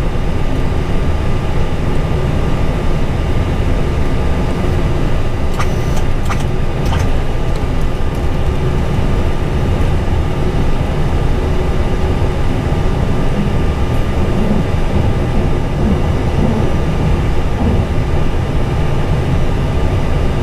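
Steady cockpit noise of an Airbus A320 on the ground with its engines running: a constant low rumble with a faint steady whine. A few light clicks come about six seconds in.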